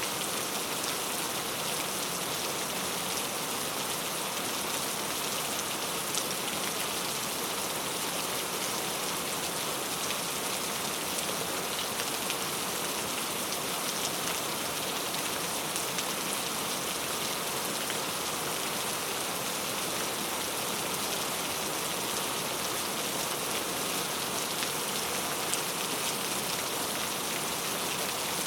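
Steady rainfall: an even hiss of rain with small scattered drop ticks.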